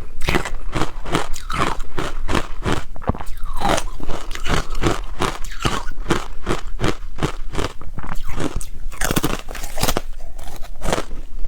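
Ice being bitten and chewed: a quick, continuous run of sharp crunches, several a second, with a longer, denser crunch about nine seconds in.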